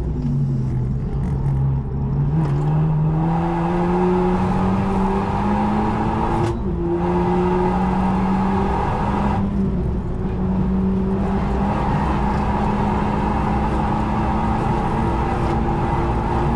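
Renault Megane RS Trophy R's 1.8-litre turbocharged four-cylinder engine at full throttle, heard from inside the cabin. Its note rises steadily through third gear, breaks for an upshift to fourth about six and a half seconds in, then climbs slowly again at high speed.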